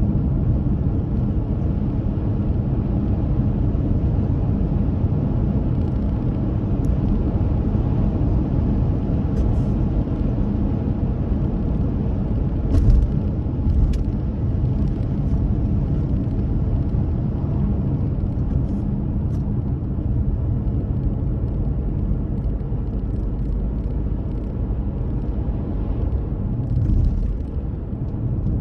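A car driving along the road: steady engine and tyre rumble, heard from inside, with a couple of bumps about halfway through.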